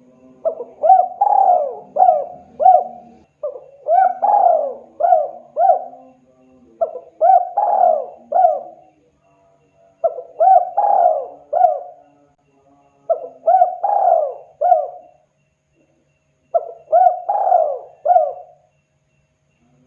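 Spotted dove (tekukur) cooing: about six phrases of four or five short coos each, repeated every few seconds with brief pauses between phrases.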